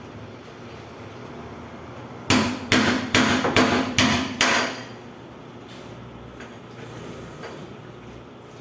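Hammer striking metal six times in quick succession, about two and a half blows a second, with a ringing note: knocking at the bearing and seal on an industrial washing machine's drum shaft to drive them out.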